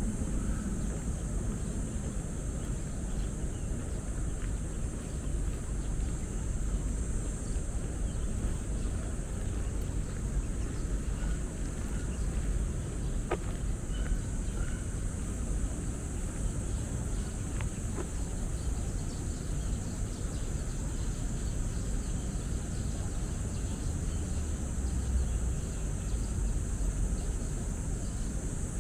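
Steady high buzzing of an insect chorus over a low, constant rumble of city traffic, with a few faint bird chirps and a couple of small clicks.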